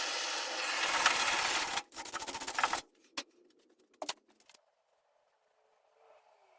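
Power tool working on the car's steel body panel, running steadily, then stuttering in quick bursts before stopping about three seconds in; a couple of sharp clicks follow.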